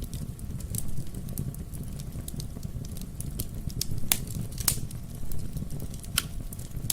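Wood fire burning in a fireplace: a steady low rumble of the flames with irregular sharp crackles and pops of burning wood, a couple of louder pops about four to five seconds in.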